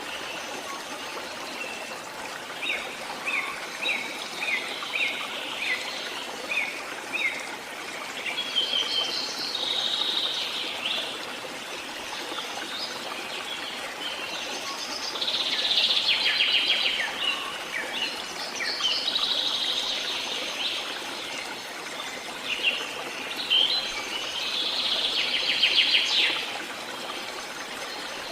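Songbirds singing in repeated phrases, one a run of short falling notes, others dense trilled bursts, over a steady rushing background like flowing water.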